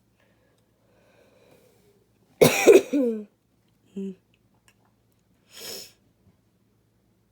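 A person coughing: one loud, rough cough about two and a half seconds in, then a short throat sound about a second later and a breath near the end.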